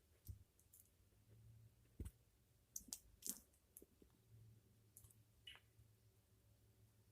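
Faint, scattered beak clicks from an African grey parrot preening, about nine in all, irregularly spaced, over a low steady hum.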